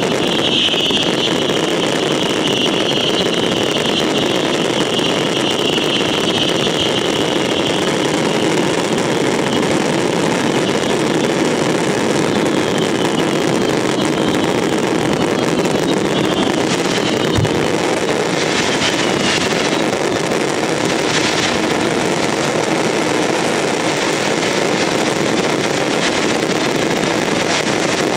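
Massed F2 fireworks batteries firing at once: a continuous, loud roar of launches, crackling and bursts all blending together, with sharper cracks standing out in the second half.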